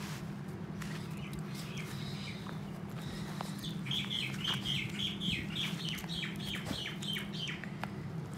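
A bird singing a quick run of short, falling chirps, about four a second, through the middle of the clip, over a steady low hum.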